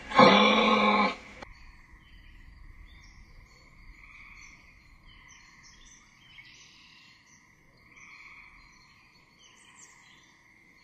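A loud voice-like sound lasting about a second at the start. Then a steady, quiet chirring of insects with scattered bird chirps over it: a nature-sounds background.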